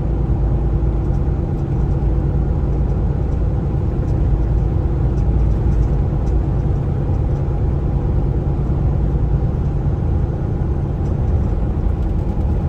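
Kenworth T680 semi-truck heard from inside the cab while driving: a steady low engine drone and road rumble.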